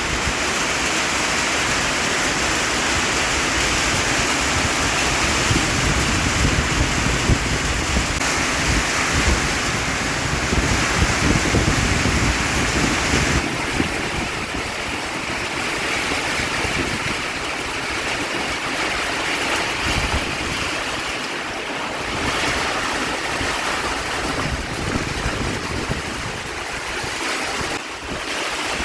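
Heavy rain falling, a steady dense hiss, with gusts of wind rumbling on the microphone, strongest through the first half.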